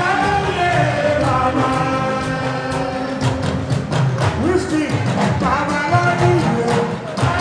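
Live fuji music: a singer's voice over a band of drums and percussion, with a steady rhythm of drum strokes throughout.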